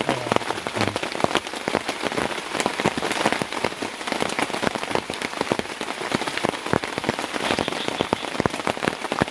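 Heavy tropical rain falling: a steady, dense hiss with many sharp, irregular drop hits.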